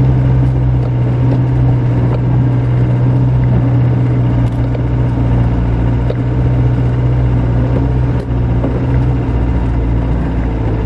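Land Rover engine running steadily while driving, heard from inside the cab, with a few light knocks and rattles.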